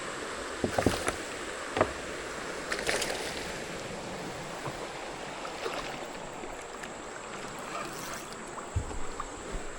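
Steady rush of flowing creek water, with a few short knocks against a kayak, a cluster in the first three seconds and more near the end.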